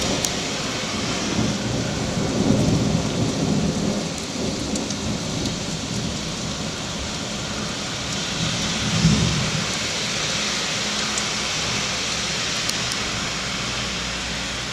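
Very heavy rain pouring steadily, with low rumbles of thunder about two seconds in and again about nine seconds in.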